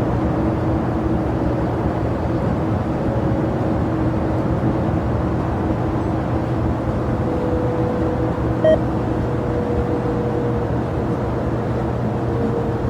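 Jet airliner engines running at an airport: a steady rumble with faint steady tones running through it.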